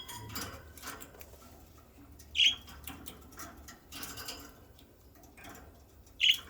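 Pet budgerigars: two short, sharp chirps, one about two and a half seconds in and one near the end, with faint scratching and clicking from the birds at their food in between.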